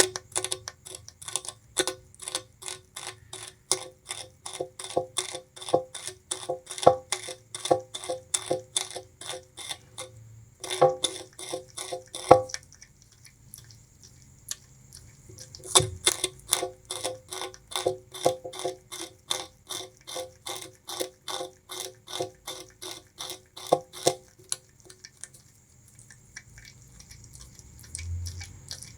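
Bamboo rat chewing sugarcane: a fast, even run of crisp crunching bites, about three a second, with a pause of a few seconds before the middle, then dying away near the end.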